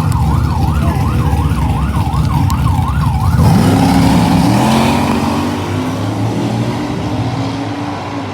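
Police car's siren wavering quickly up and down over its engine running loudly at the line; the siren cuts off about three and a half seconds in as the car launches, its engine revving up through several gear changes and fading as it pulls away down the drag strip.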